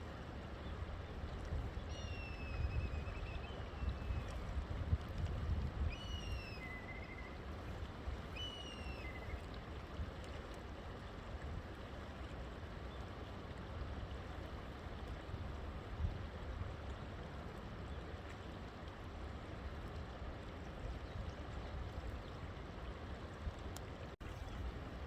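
Steady rushing of a river. In the first ten seconds a bird calls about three times, each call a clear whistle sliding down in pitch followed by a short lower note.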